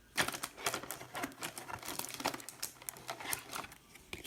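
Trading-card packs and cards being handled: a quick, irregular run of wrapper crinkling with small sharp clicks and crackles.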